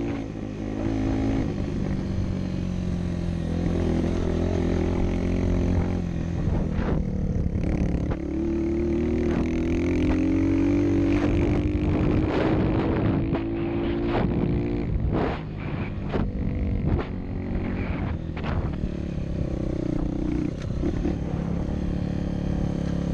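Motorcycle engine running, its pitch rising steadily partway through as it speeds up, with several sharp knocks and some clatter a little past the middle.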